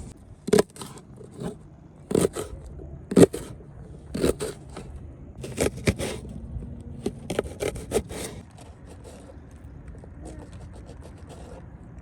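A series of short scraping strokes, irregular and a second or so apart, loudest about three seconds in, thinning to faint ticks in the last few seconds.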